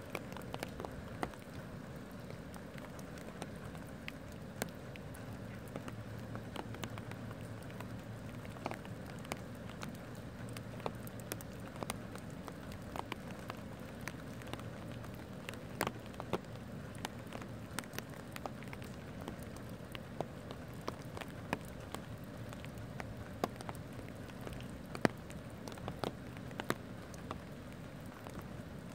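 Steady rain falling, with many individual drops tapping sharply and irregularly on nearby surfaces.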